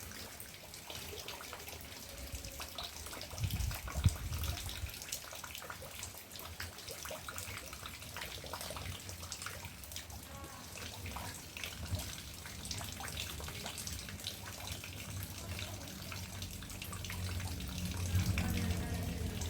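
Rainwater dripping and trickling, with many small drops spattering over a steady wash of running water. There is a low thump about four seconds in, and a low hum builds near the end.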